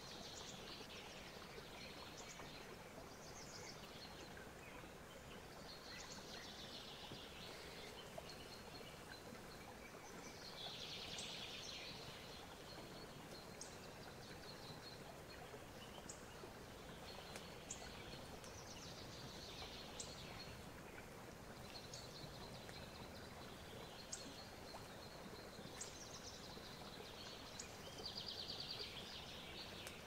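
Faint birds chirping in short phrases every few seconds, with a rapid trill near the end, over a steady low hiss.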